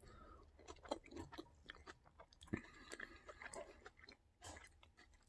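Faint chewing of a mouthful of burger with the mouth closed: soft, scattered wet clicks and smacks.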